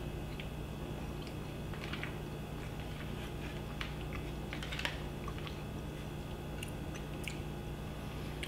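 A man chewing a mouthful of soft chicken, melted cheese and pasta, with faint, scattered wet clicks of the mouth over a steady low room hum.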